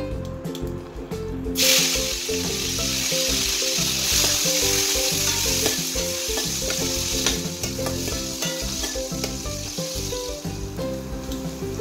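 Dried red chillies hitting hot oil in a stainless steel wok: a sudden loud sizzle starts about a second and a half in, then eases off gradually as they are stirred with a metal spoon.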